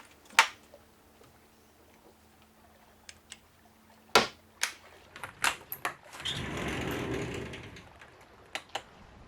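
Scattered clicks and knocks of gear being handled and put away, with a rustling rush lasting about two seconds, starting about six seconds in.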